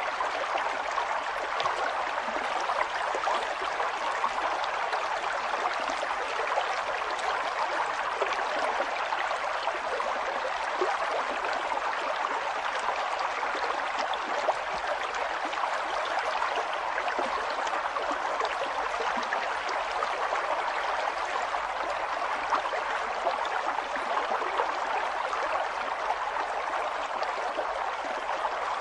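River water flowing steadily over rocks, a continuous rushing with small gurgles and splashes.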